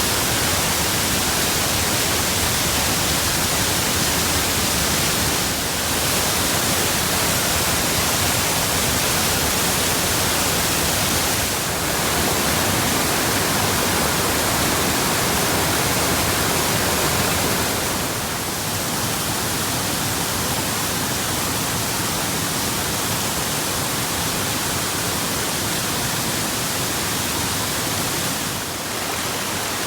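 Waterfall: the steady rush and hiss of falling water, with brief dips in level a few times.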